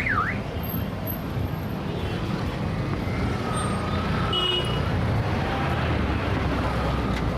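Heavy city traffic: a steady rumble of engines and tyres. A quick high whistle-like glide sounds right at the start, and a faint high tone is held for about a second, a few seconds in.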